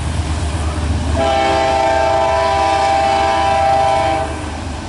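CSX freight locomotive's air horn sounding one long blast of about three seconds, several notes together in a chord, starting about a second in, over a steady low rumble.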